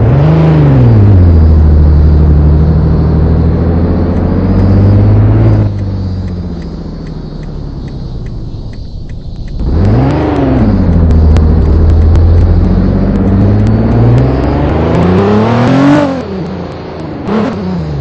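A vehicle engine revving under throttle. It climbs sharply at the start and stays loud for about five seconds, then drops back to a quieter running level. It revs up again about ten seconds in, rises to a peak near sixteen seconds, falls off, and blips once more near the end.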